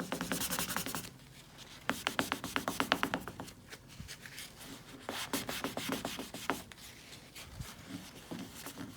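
A cloth wiped quickly back and forth over a truck's painted body panel, in three bursts of rapid strokes about eight a second, cleaning the surface with isopropyl alcohol before an adhesive badge goes on.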